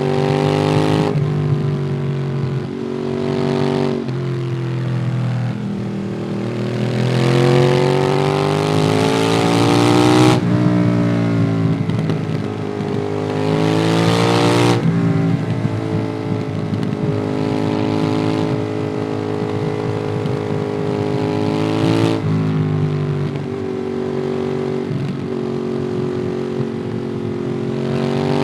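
Ducati Monster 821's L-twin engine through a QD Twin Gunshot aftermarket exhaust, heard from the moving bike under way, with wind noise. The engine pitch climbs under acceleration and drops sharply at upshifts, at about 10 and 15 seconds in. It holds a steady pace from about 16 s, with another change near 22 s.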